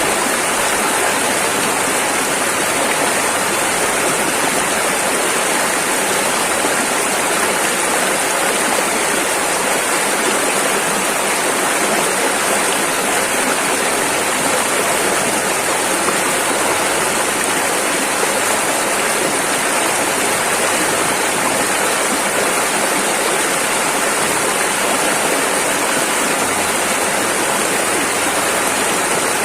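Rushing river water flowing over rapids, a steady, unbroken wash of noise.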